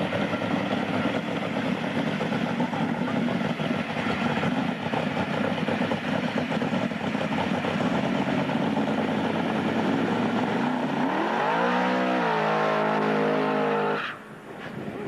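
Supercharged 1955 Chevrolet drag car doing a burnout. The engine runs steadily, then its revs climb steeply about eleven seconds in and hold high as the rear tyres spin and smoke. The sound cuts off abruptly near the end.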